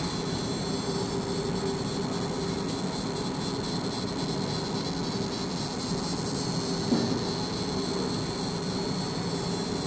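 Fiber laser engraving: a steady buzzing hiss with held low and high tones as the beam vaporizes the material, with one brief louder pop about seven seconds in.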